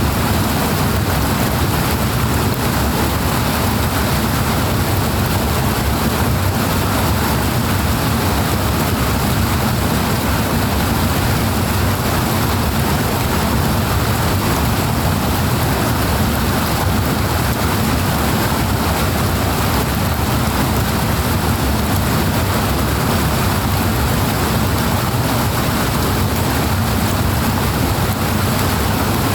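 Powerful rushing water in a canal: a loud, unbroken rush of noise, heavy in the low end.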